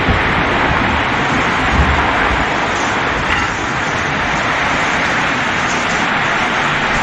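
Heavy storm rain pouring steadily as a dense, loud hiss, with low rumbles of wind buffeting the microphone about two seconds in.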